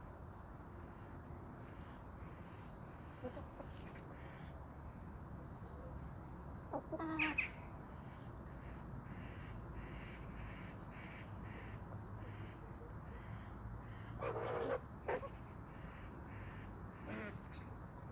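Two harsh, loud bird calls, each about half a second long and some seven seconds apart, over a faint steady low hum, with faint high chirps in between.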